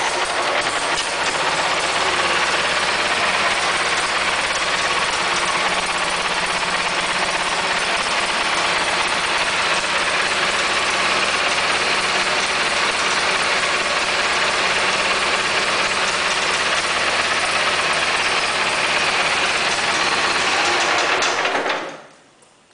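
Kohler 18 hp engine of a Snapper 2000 GX garden tractor running steadily just after starting, then shut off and winding down near the end. It does not sound perfect, but it does not sound too bad either.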